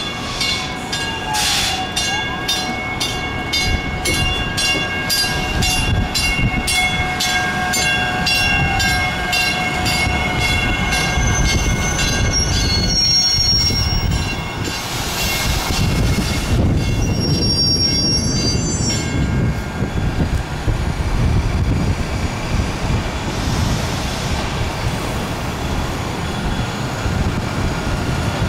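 South Shore Line electric multiple-unit train pulling in along the platform. Its wheels rumble steadily on the rails, with high steady squealing tones over the first half and tones gliding downward as it slows.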